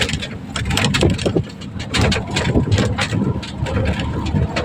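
Noise of riding in a moving vehicle: a low rumble with wind buffeting the microphone and frequent short rattles and knocks.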